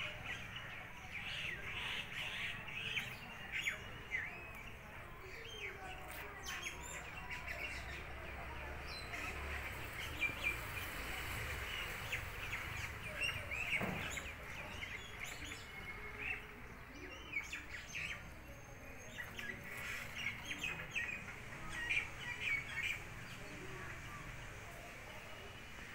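Small birds chirping, many short calls scattered throughout, over faint outdoor background noise.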